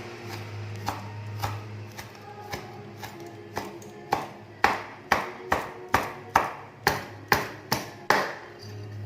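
Metal kitchen utensil striking cookware in a string of sharp ringing clanks, sparse at first, then about two a second and louder through the second half before stopping.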